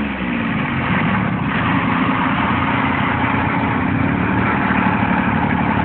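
Diesel engine of a Cub Cadet pulling tractor running steadily at low revs, its pitch falling just at the start as the revs come down.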